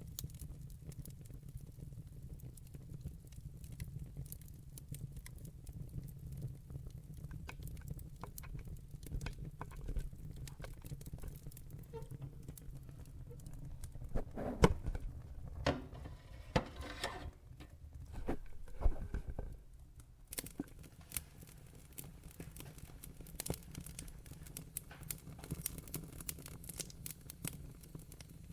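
Fire in a fireplace crackling: scattered snaps and pops over a steady low rumble. A cluster of louder pops comes about halfway through, and the low rumble drops away soon after.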